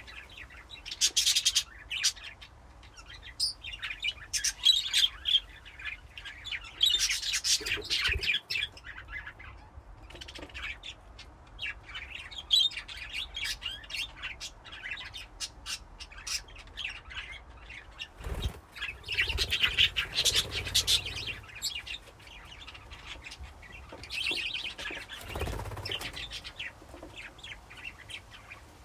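A flock of budgerigars chirping in a colony cage, many birds calling over one another in bursts with short lulls. A couple of dull low thumps come in the second half.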